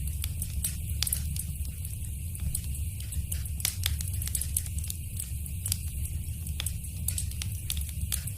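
Fireplace fire crackling: a steady low rumble with frequent, irregular sharp crackles and pops.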